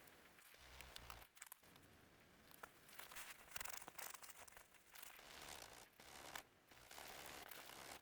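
Wood campfire crackling faintly, with irregular snaps and crinkling bursts.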